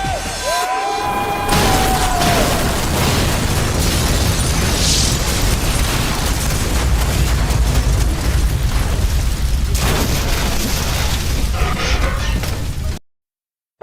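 A short tyre screech, then a long, loud explosion with heavy rumble that runs on for about eleven seconds and cuts off abruptly.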